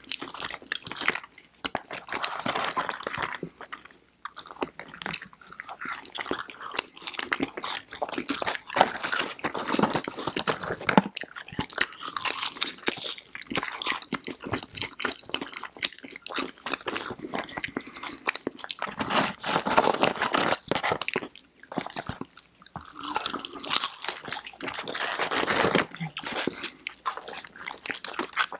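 Close-miked chewing and crunching of fried chicken fingers and crinkle-cut fries, with bites and wet mouth sounds from two people eating.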